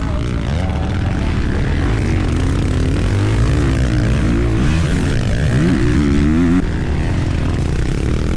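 Dirt bike engine revving up and down repeatedly as it is ridden, with a higher held rev about two-thirds of the way in that then drops, over a steady low rumble.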